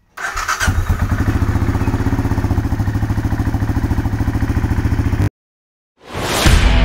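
Benelli Imperiale 400's single-cylinder engine idling with an even, pulsing beat, cutting off suddenly about five seconds in. Rock music with guitar starts near the end.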